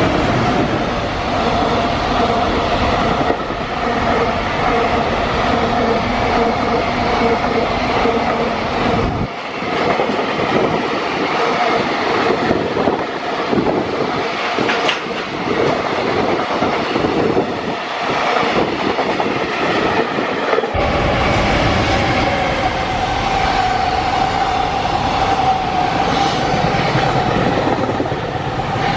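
Freight train running past at speed, its wagons' wheels clacking over the rail joints in a continuous loud rumble. The sound changes abruptly twice, about nine and about twenty-one seconds in, as one passing train gives way to another.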